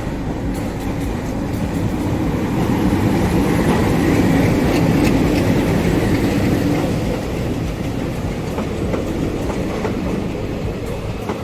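Indian Railways express train rolling slowly along the platform, its wheels clicking over the rail joints. It gets louder for a few seconds in the middle.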